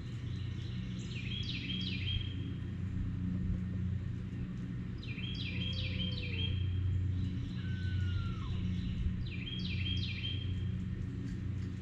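A songbird sings a quick phrase of stepped, falling high notes three times, over a steady low hum. There is a short, softer low call about six seconds in and a brief falling note about eight seconds in.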